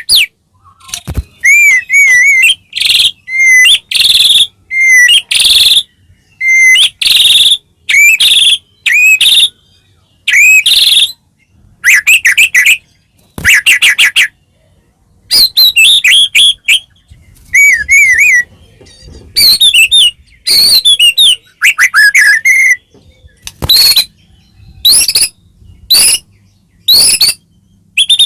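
White-rumped shama (murai batu) singing loud, varied whistled phrases. The phrases are short and full of rising and falling notes, delivered in quick succession with brief pauses between them.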